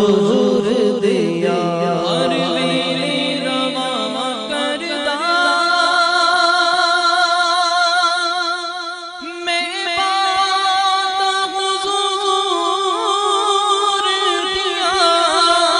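Devotional naat singing: a voice holding long, wavering notes without clear words, with a short dip in level about nine seconds in.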